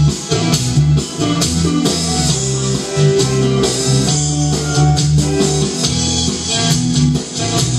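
Live rock band playing an instrumental passage: guitar and bass over a drum kit with a steady beat.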